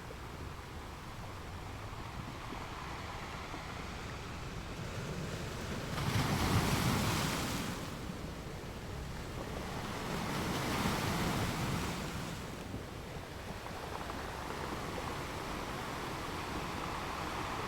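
Ocean surf washing steadily, with two louder waves rushing in a few seconds apart near the middle.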